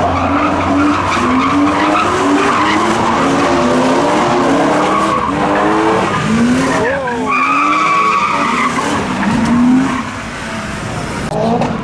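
A car doing donuts: its engine revs up and down again and again while the tyres skid. About two-thirds of the way through, a steady high squeal holds for a second or so.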